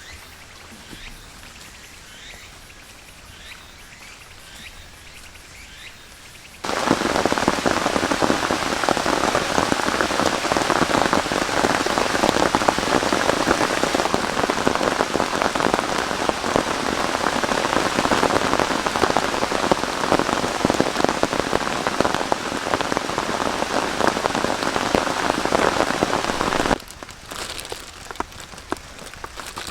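Heavy rain, a dense hiss of drops striking a surface, which starts abruptly about seven seconds in and cuts off just as abruptly a few seconds before the end. Before the rain, only faint, scattered chirps over a quiet background.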